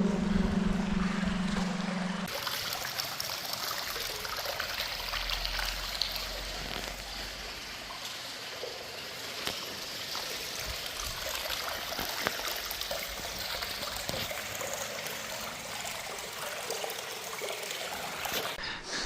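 Small creek trickling and bubbling, a steady splashy water sound. A held sung note cuts off about two seconds in.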